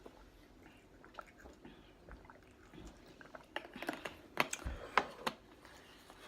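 Faint eating sounds, then about halfway through roughly two seconds of sharp crackling clicks from food packaging being handled.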